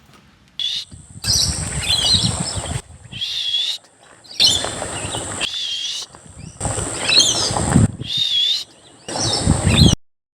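Birds calling in repeated warbling, wavering phrases, with loud stretches of rushing noise between them; it stops abruptly near the end.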